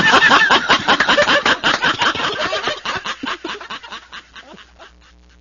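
A din of many farm birds, geese and ducks, honking and quacking at once, fading out steadily over a few seconds.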